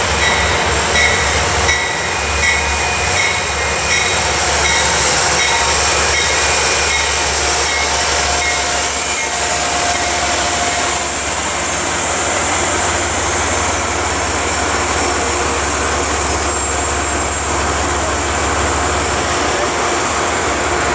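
Amtrak passenger train rolling into the station: a steady noise of cars running over the rails, with thin high squealing tones from the wheels in the first several seconds.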